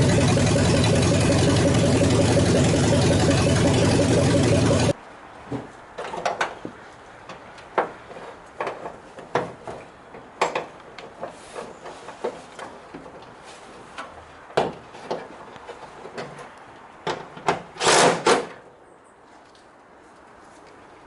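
Chevy S10 truck engine running steadily on its own with newly fitted headers, then cut off abruptly about five seconds in. After that come scattered light clicks and knocks, with a brief louder rattle near the end.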